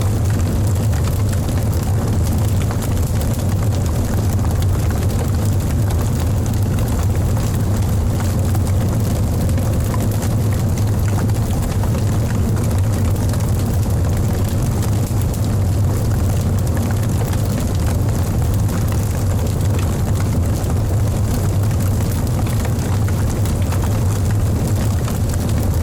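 Wood fire burning in a fireplace: a steady, loud low roar with faint crackles.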